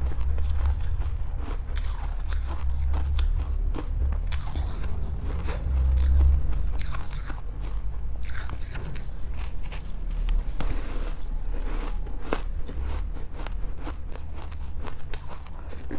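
A person biting into ice close to the microphone, making repeated crisp crunches and crackles over a low rumble.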